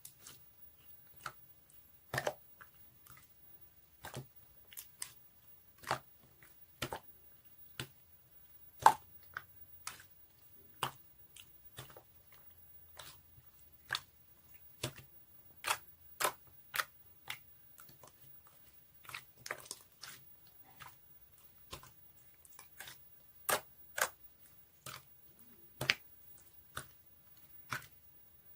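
An irregular series of short, sharp clicks or taps at varying loudness, roughly one to two a second.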